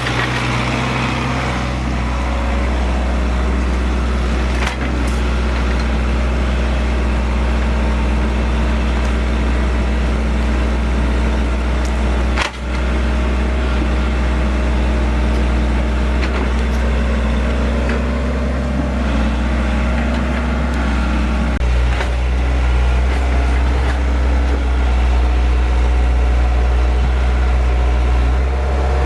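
Excavator's diesel engine running steadily with a deep hum, briefly interrupted twice, and a little louder in the last few seconds.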